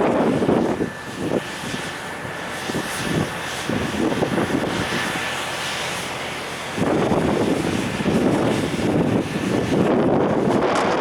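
Wind buffeting the microphone in irregular gusts over a steady rumble. The gusts ease for a few seconds about a second in and pick up again past the middle. A faint steady high tone runs under the quieter stretch.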